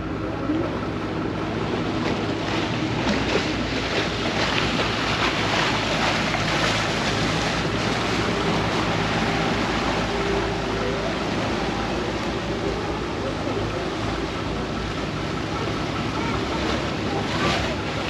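Vaporetto water bus under way: its engine hums steadily beneath the rush and splash of water along the hull.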